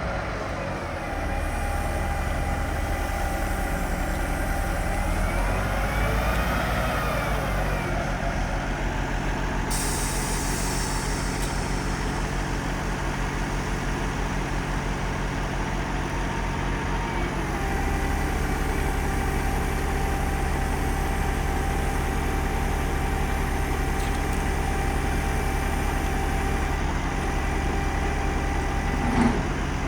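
Cummins NTC-400 six-cylinder turbo diesel in a Peterbilt 379 running steadily at idle, with a thin steady whine over it. Its pitch rises and falls once a few seconds in. There is a short hiss around the ten-second mark and a single knock near the end.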